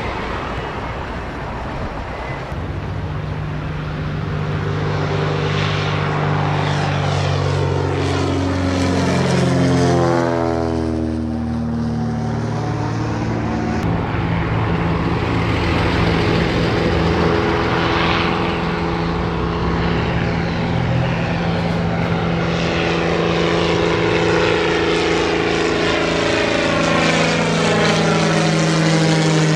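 Propeller-driven light airplane flying low past, its engine note dropping in pitch as it goes by about ten seconds in, then a steady engine drone for the rest of the time.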